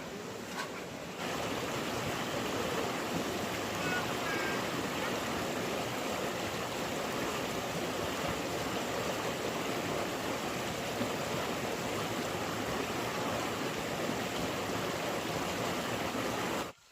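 Steady rushing noise of flowing water. It starts abruptly about a second in and cuts off sharply near the end.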